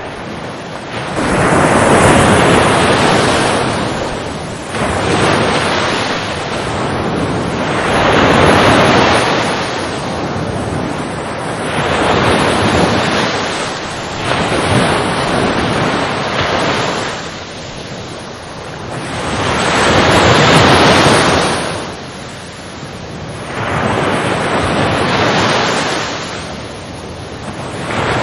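Ocean waves breaking on a shore, the surf rushing up and falling back in slow swells every few seconds.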